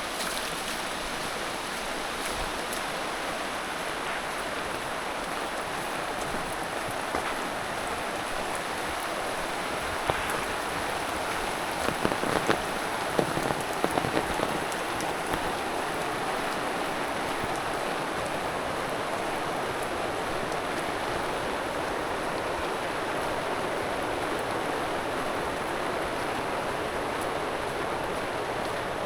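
Steady rain falling, an even hiss with fine patter. A few louder taps stand out about ten to fifteen seconds in.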